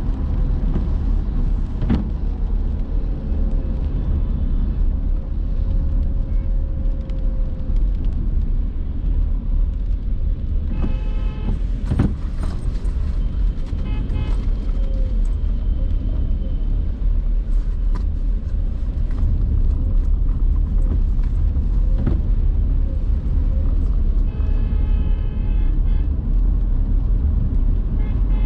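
A car driving in city traffic: a steady low road and engine rumble, with other vehicles' horns tooting several times, about ten seconds in, midway, and near the end.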